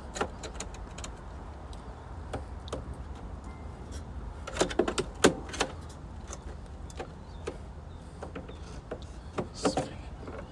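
Scattered clicks, taps and rattles of hands working a new temperature sensor's wire and connector into place inside a pool heat pump, with a louder cluster about halfway through and another near the end, over a low steady hum.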